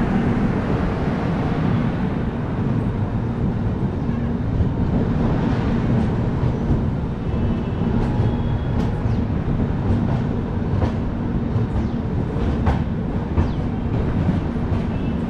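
Passenger train pulling out of a station at low speed: a steady low rumble of the coach running on the rails, with scattered sharp clicks of the wheels over rail joints in the second half.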